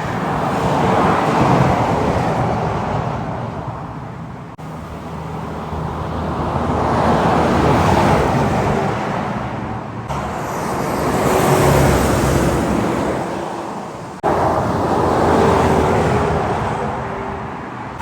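Heavy trucks passing on a highway, one after another, each swelling up and fading away. The passes are separated by three abrupt cuts.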